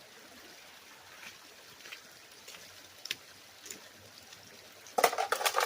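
Faint trickle of water with a few scattered small clicks, then a loud, rough clattering burst near the end.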